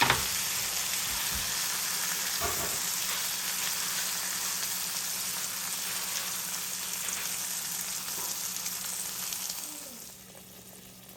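Food frying in a hot pan, a steady crackling sizzle with a couple of short knocks, one at the start and one about two and a half seconds in. The sizzle dies down near the end.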